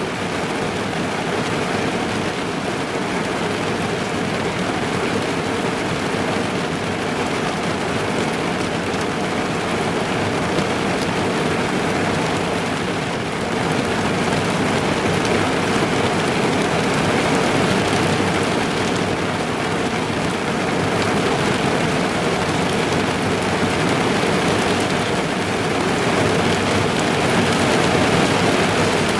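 Steady, dense rain falling on a car's body and windows, heard from inside the car, growing slightly louder about halfway through.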